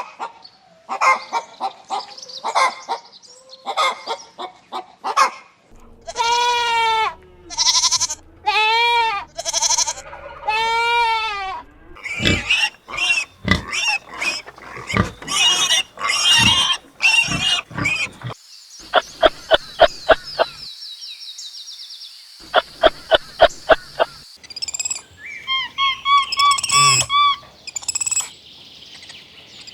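A series of different farm animal calls, one after another: short calls, then five long drawn-out calls of about a second each, then a fast run of short calls, rapid pulsed calls over a steady high hiss, and chirping near the end.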